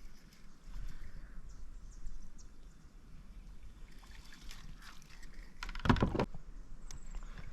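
Hooked Australian bass being played at the surface: faint water and boat-handling noise with small clicks, and a short loud splash about six seconds in.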